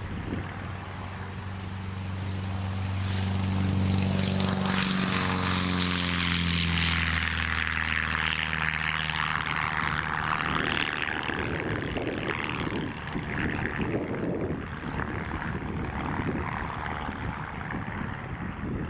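Light single-engine propeller airplane at takeoff power passing low and close. The engine grows louder, peaks about four to seven seconds in, then drops in pitch as it goes by and fades away by about eleven seconds, after which only a rushing noise remains.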